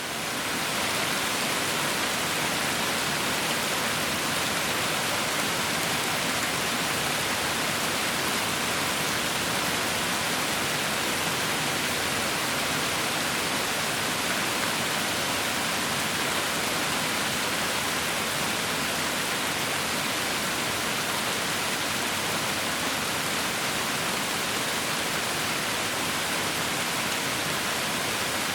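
Steady rain, an even hiss with no separate drops or thunder standing out, fading in over the first second and then holding constant.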